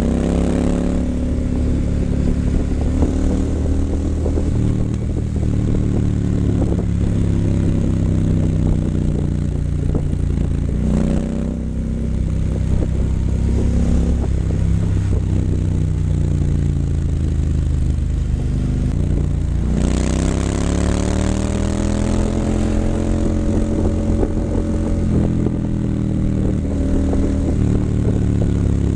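2019 Triumph Scrambler 900's parallel-twin engine through an H-pipe and Vance & Hines exhaust, running steadily with its note gliding up and down as the throttle changes. The note briefly drops about eleven seconds in, then climbs strongly as the bike accelerates about twenty seconds in.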